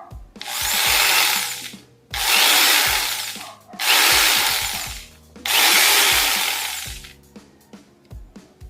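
A 550-watt PowerHouse jigsaw's motor and reciprocating blade run in four short bursts of about a second and a half each, every burst dying away as the trigger is let go. Light handling clicks follow near the end.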